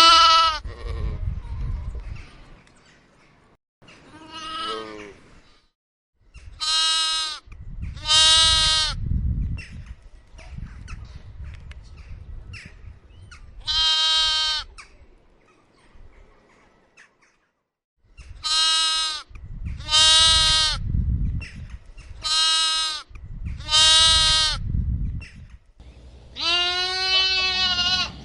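A lamb bleating over and over: about ten short, high, pitched bleats with pauses between them, the last one longer and wavering. A low rumble runs in the background.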